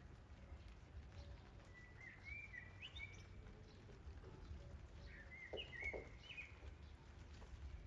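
A songbird singing faintly: two short warbling phrases of quick chirps, about two seconds in and again about five seconds in, over a steady low rumble.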